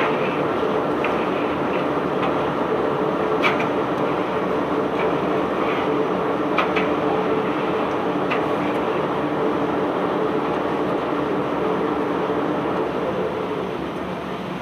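Bulk ship-unloading machinery running with a steady rumbling hum and a few sharp knocks, easing off slightly near the end.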